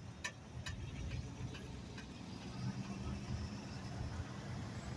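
Low rumble of a freight train led by a GP40-2W diesel locomotive, with light clicks about every half second during the first second and a half and a steady low hum joining about halfway through.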